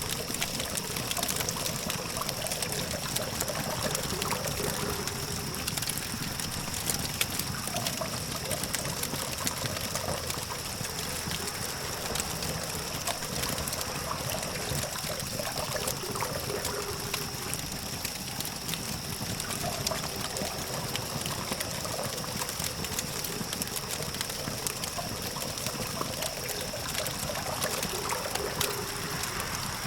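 Campfire crackling: many small irregular pops and snaps from burning wood, over the steady hum of distant traffic. A thin, steady high-pitched tone sits above it.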